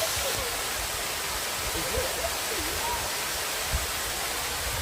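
Water of the Bua Tong waterfall cascading over rock, a steady rushing noise. Faint distant voices and a few low bumps come through now and then.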